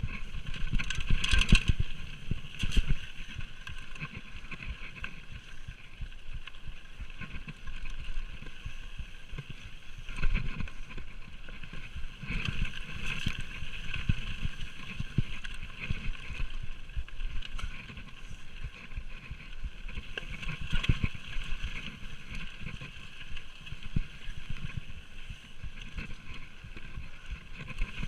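Orange Five full-suspension mountain bike ridden fast down a rough singletrack: tyres rumbling over the dirt with frequent knocks and rattles from bumps, a few harder jolts standing out.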